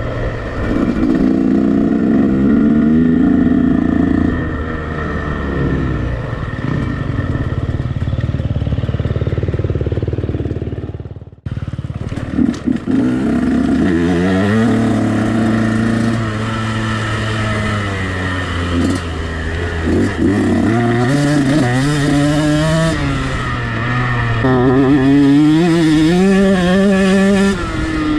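KTM 125 SX single-cylinder two-stroke motocross engine being ridden hard, revving up and falling off again and again as the rider works the throttle and gears. The sound drops out abruptly for a moment about 11 seconds in, then picks up again.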